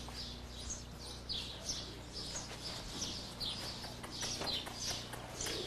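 Small birds chirping over and over, many short high chirps in quick succession, over a steady low hum.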